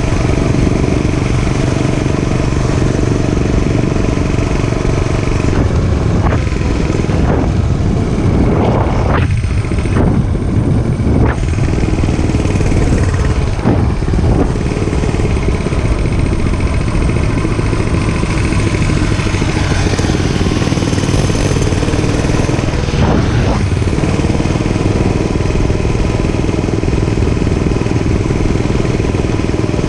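Dirt bike engine running while riding. Its pitch rises and falls several times between about six and fourteen seconds in and once more past twenty seconds, as it revs and shifts, then holds steady.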